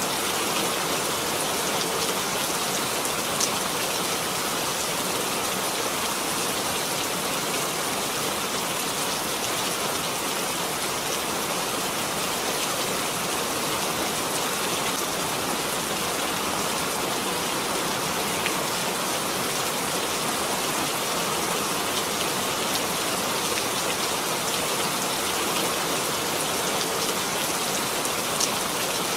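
Steady rain falling, a dense even patter with a few distinct drops standing out now and then.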